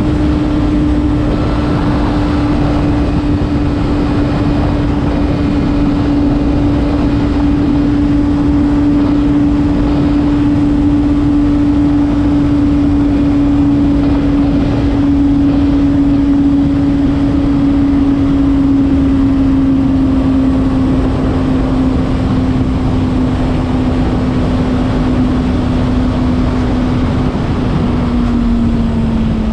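Honda CBR600RR's inline-four engine pulling at high revs under riding, with wind rushing over the bike. Its pitch sinks slowly, then drops more steeply near the end as the bike slows.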